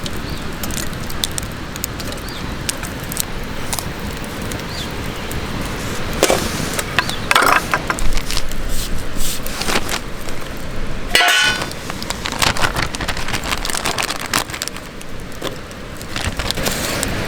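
Clinks and scrapes of metal cookware and utensils while preparing food over a campfire, with a steady noisy background and several sharper scrapes partway through.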